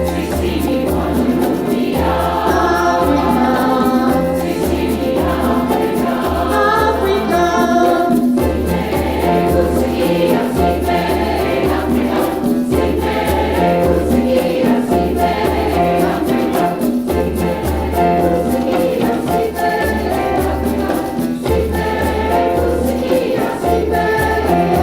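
Mixed community choir singing in harmony over a steady low beat.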